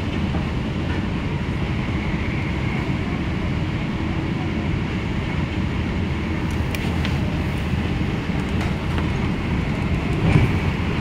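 Cabin noise of an MTR K-Train electric multiple unit running at speed: a steady rumble of wheels on rail, with a few faint clicks about six to seven seconds in and a louder knock near the end.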